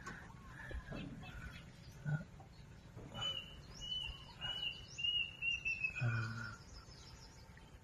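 Faint background with a bird calling a quick run of about seven short, high chirps in the middle, the last ones dropping slightly in pitch.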